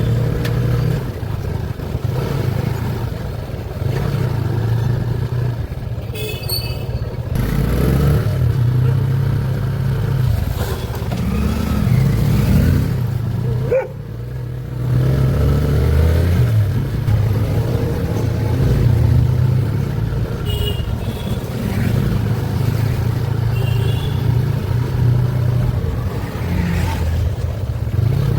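A motor vehicle's engine running steadily on the move, a continuous low hum that dips briefly about halfway through.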